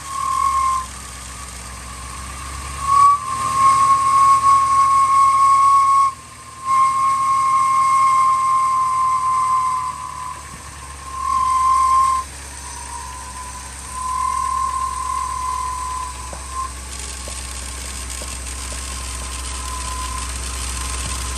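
A 2000 Ford F250's 5.4-litre V8 running just after a cold start, which the owner says is not running well until warm. Over the engine, a loud high whistle comes and goes in stretches of a few seconds.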